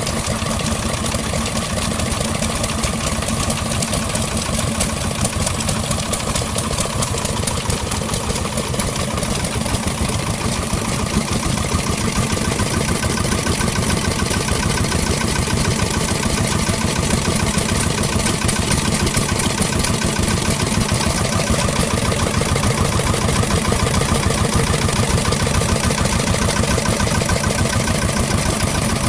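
Vintage engine running steadily at idle, with a fast, even firing rhythm.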